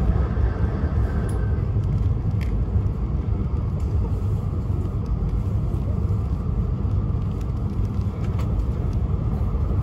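Steady low rumble of a Shinkansen train running at speed, heard from inside the passenger cabin, with a few faint clicks.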